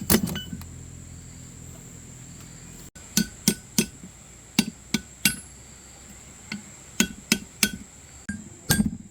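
A hammer striking metal: about a dozen sharp blows starting about three seconds in, in quick uneven groups, each with a short metallic ring. A steady thin high tone runs underneath.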